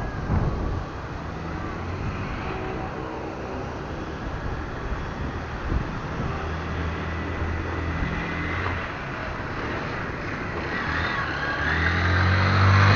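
Street traffic: a motor vehicle's engine running close by with a steady hum, then a vehicle coming closer and getting louder near the end.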